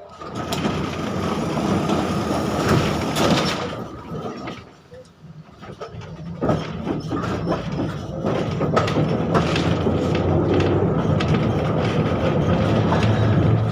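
71-605 (KTM-5M3) tram car running on the rails: wheel and track noise with a low hum and many sharp clicks and knocks. It comes in suddenly, eases off briefly about five seconds in, then picks up again and stays steady.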